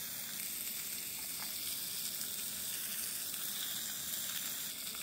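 Salmon frying in a hot stainless steel pan on a camp stove: a steady, even sizzle as the fish browns.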